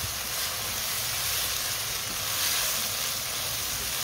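Diced chicken and carrot sizzling steadily in a hot non-stick wok as they are stirred with a silicone spatula.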